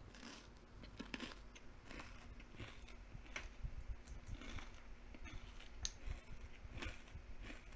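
Close-miked eating sounds: irregular small crunches and clicks of something being bitten and chewed.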